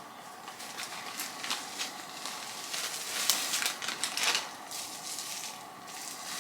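Packaging rustling and crinkling as a small product is unwrapped by hand, with irregular crackles and light clicks, busiest in the middle of the stretch.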